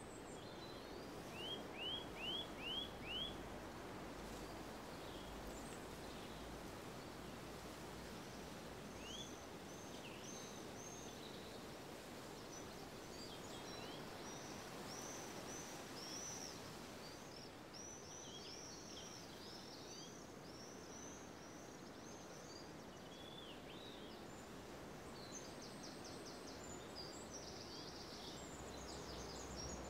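Small birds singing and chirping over a steady, faint background hum of outdoor ambience. The loudest part is a quick run of five rising notes about two seconds in, followed by scattered short, high chirps through the middle and again near the end.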